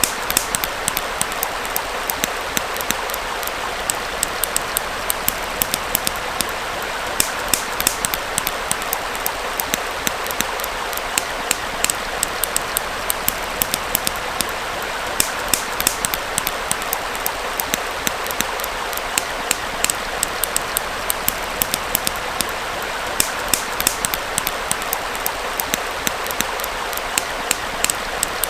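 Campfire crackling and popping in frequent, irregular sharp snaps over the steady rushing of a small stream.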